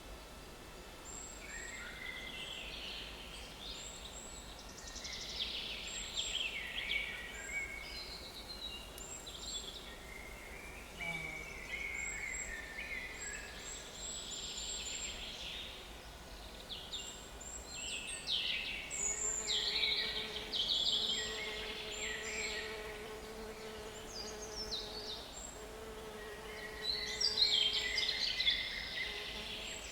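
Several small woodland songbirds singing in overlapping chirps and trills. From about two-thirds of the way in, a fly buzzes close to the microphone with a steady hum.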